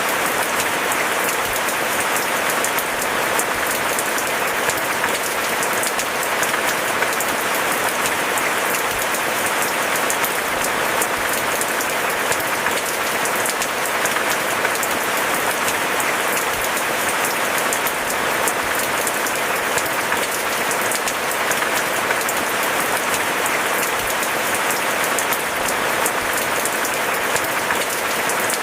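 Steady heavy rain: a dense, even patter of many drops that holds level without let-up.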